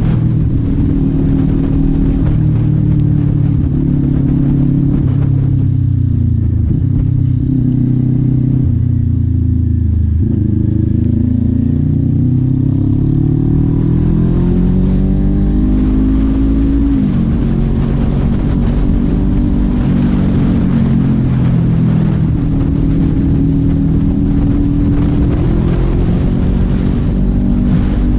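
Kawasaki Z400's parallel-twin engine running under way. Its pitch falls as it slows about a quarter of the way in, then rises again as it accelerates. It drops sharply at a gear change a little past halfway, then holds fairly steady.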